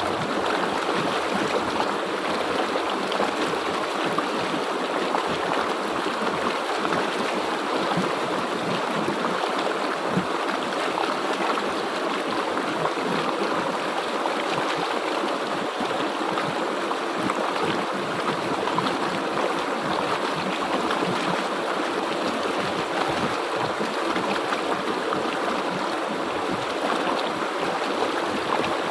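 A river or stream flowing steadily over rocks, a continuous rushing and gurgling of water.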